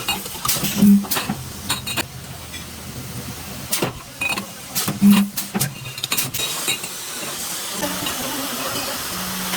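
Metalworking factory noise: irregular sharp metal knocks and clanks over a hissing background, with brief low hums about a second in and about five seconds in. Near the end it settles into a steady hiss and hum.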